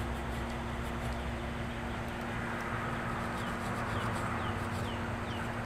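A bird calls in a run of short, falling chirps, about three a second, starting about halfway through, over a steady low hum and hiss.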